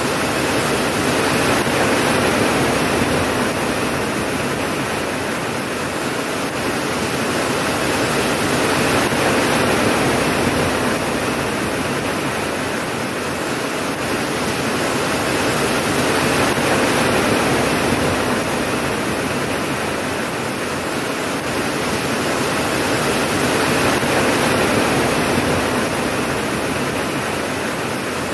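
Steady heavy rain, a dense even hiss that slowly swells and eases about every seven or eight seconds, with no thunder claps.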